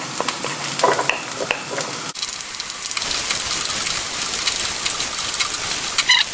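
Diced Chinese sausage sizzling in hot oil in a frying pan on high heat, with a wooden spatula clicking and scraping as it is stirred. The sizzle gets louder about three seconds in.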